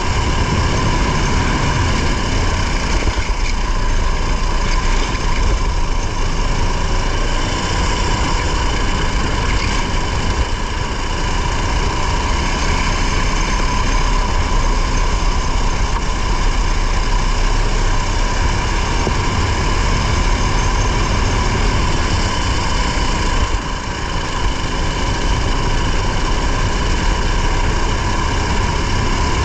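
Race car's engine running hard under load, heard from inside the car with road and wind noise, steady apart from brief drops in level about ten seconds in and again near the end.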